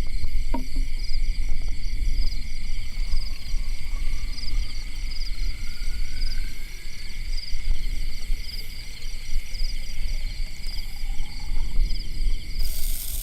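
A chorus of forest insects keeps up a steady, shrill, pulsing trill, with several insects calling at different pitches, over a low rumble. Near the end a high hiss sets in suddenly.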